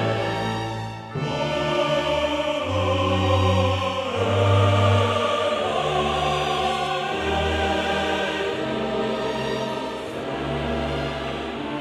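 Choral music: voices singing long held notes over low sustained bass notes that change every second or two. There is a brief dip in loudness about a second in.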